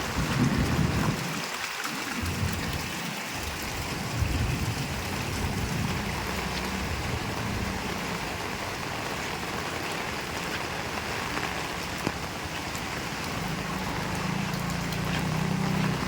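Heavy rain falling steadily, a dense even hiss. Low rumbles swell now and then: about half a second in, around four to six seconds, and again near the end.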